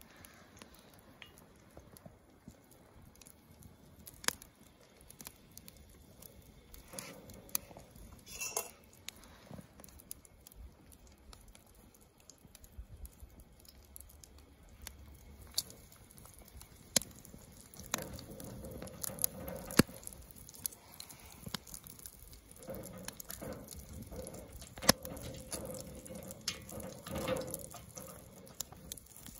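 Bannock dough frying in hot lard in a cast iron skillet over a campfire: scattered crackles and ticks at first, then from about two-thirds of the way in a denser sizzle with frequent spits and pops.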